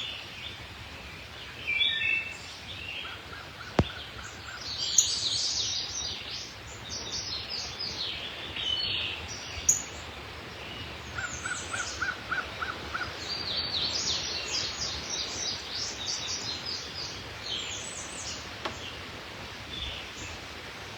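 Several wild birds singing and chirping at once, a steady chorus of short, high, overlapping calls, with a run of evenly spaced lower notes heard twice. A single sharp click sounds about four seconds in.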